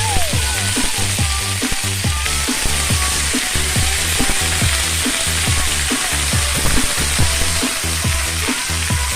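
Food frying in a pan with a steady sizzle, under background music with a repeating bass beat.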